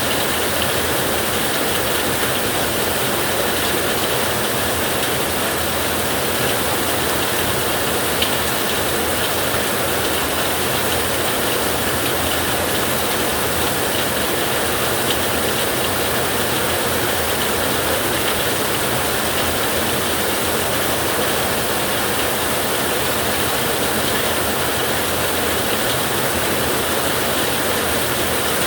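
Steady rain falling on a metal roof: an even hiss dotted with small ticks of drops, with one sharper tick about eight seconds in.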